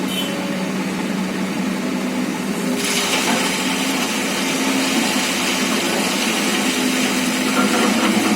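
Excavator's diesel engine running steadily. About three seconds in, a loud steady hiss joins it and carries on.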